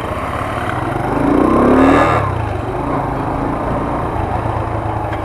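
Small moped engine running, revved up once about a second in with a rising pitch, then dropping back to a steady run.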